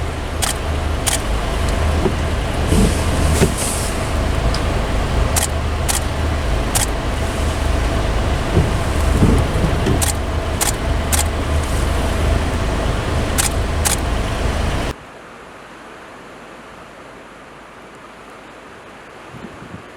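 A motor vehicle running with a loud, steady low rumble and hum, with scattered sharp clicks. It cuts off abruptly about 15 seconds in.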